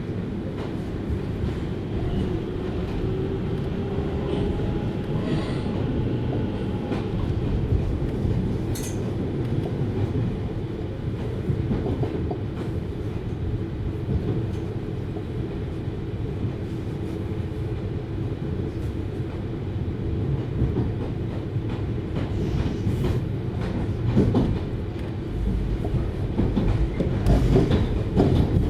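JR Hokkaido 733 series electric train running, heard from inside the car: a steady rumble with wheels clicking over rail joints, and a faint rising whine a few seconds in. It gets louder and more clattery near the end.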